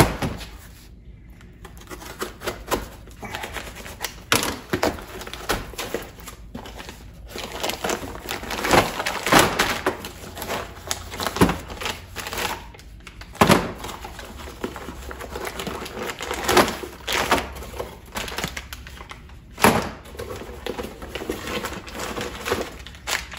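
Rummaging through a parcel of packing peanuts and metal parts: rustling and crinkling with irregular clicks and knocks of metal pieces such as heim joints being handled. There are a few louder knocks about halfway through and near the end.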